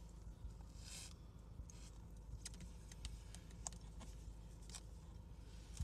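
Quiet eating sounds: soft chewing and mouth clicks with small taps and a brief rustle about a second in, over a low steady hum.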